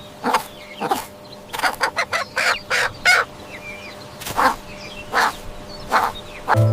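Domestic fowl giving a series of short calls, about a dozen, irregularly spaced and most crowded together in the middle.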